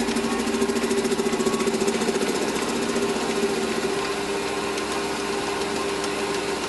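Metal lathe running, turning a piece of hexagonal bar stock. A fast rhythmic pulsing over the first two to three seconds settles into a steady machine hum.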